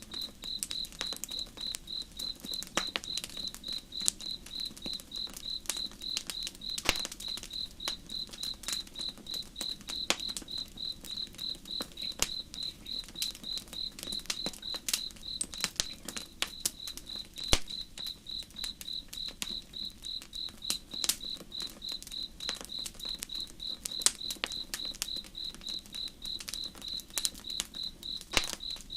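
A cricket chirping in a steady, even pulse, several chirps a second, over the sharp pops and crackles of a burning campfire and a low rush of flowing river water.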